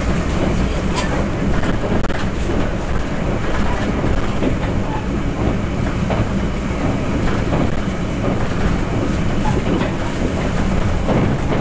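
Running noise inside a Taiwan Railway Taroko Express (TEMU1000 tilting electric multiple unit) at speed: a steady rumble of steel wheels on rail, with scattered clicks as the wheels cross rail joints.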